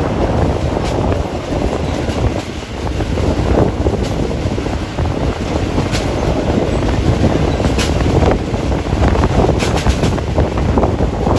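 Moving passenger train heard from an open carriage window: wind buffeting the phone's microphone over the steady low rumble of the carriage running on the rails. A few sharp clicks from the wheels on the track come through at irregular intervals of a few seconds.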